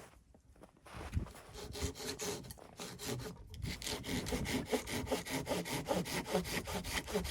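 Hand saw cutting through wood with steady back-and-forth strokes, starting about a second in and settling into an even rhythm.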